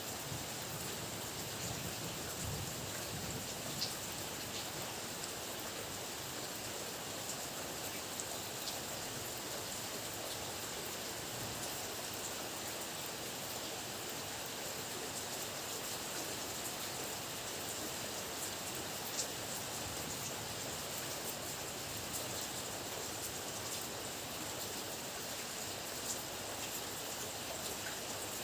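Steady heavy rain, an even hiss with scattered single drops ticking now and then.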